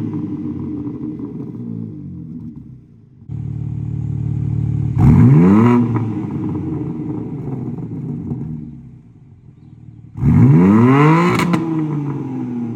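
BMW M3 Competition's twin-turbo inline-six exhaust, blipped twice from idle in track mode: each rev climbs quickly and falls back to idle, with a sharp crack near the peak of the second.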